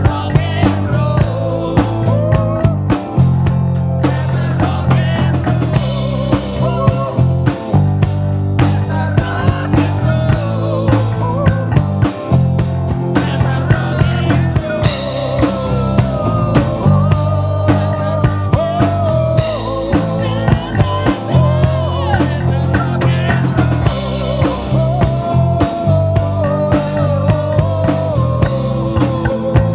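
A small live rock band playing an instrumental passage: drum kit keeping a steady beat with a bass line underneath and a lead melody that bends up and down in pitch.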